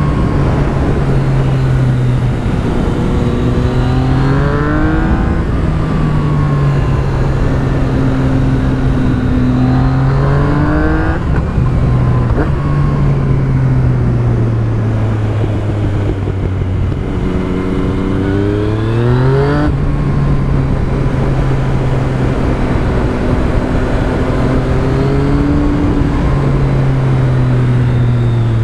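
Yamaha MT-09's inline three-cylinder engine through an Akrapovic carbon full exhaust system with the dB killer fitted, running while riding. It pulls up through the revs three times, the pitch rising and then dropping sharply at each gear change, about five, eleven and twenty seconds in, between stretches of steadier running.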